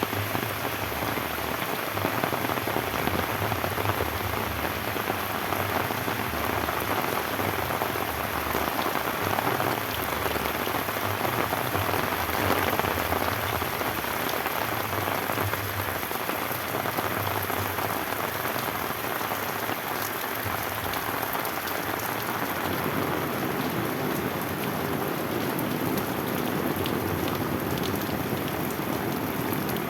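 Steady rain falling, an even hiss of many drops with fine patters of individual drops over it.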